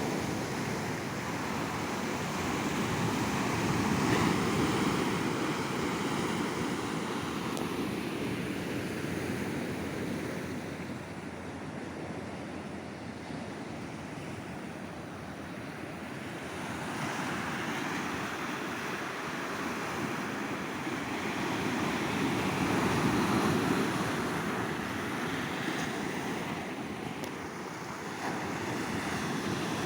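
Ocean waves breaking and washing up a beach, the surf swelling and ebbing in slow surges, with some wind on the microphone.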